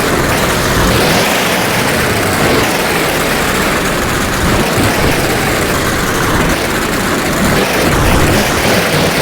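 Monster truck engine running steadily, a loud and even mechanical rush without clear changes.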